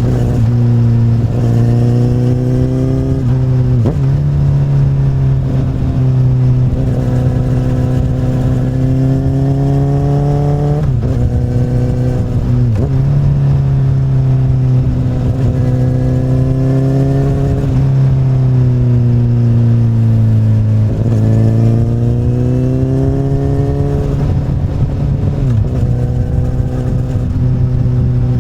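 Exhaust of a 2008 Honda CBR1000RR's inline-four through an Akrapovic carbon slip-on, under way. The pitch climbs as the bike accelerates and drops sharply several times at gear changes, with one stretch of easing off in the middle before it pulls again.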